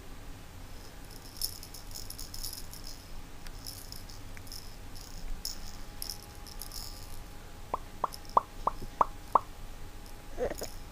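A quick series of six short, sharp pops, about three a second, near the end of a stretch of light high-pitched rattling and clicking: the pet's popping sound.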